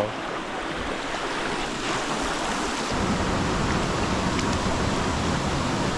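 River water rushing steadily, growing fuller and a little louder about three seconds in.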